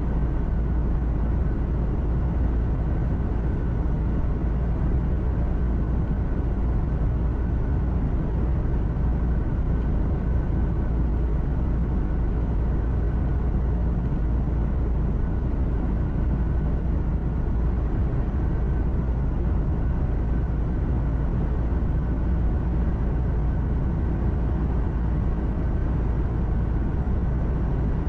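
Steady low drone of a truck driving at an even speed, engine and road noise heard from inside the cab, with a faint steady whine above it.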